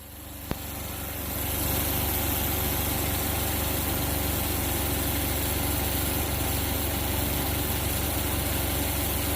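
Suzuki Jimny engine idling steadily. A single sharp click comes about half a second in.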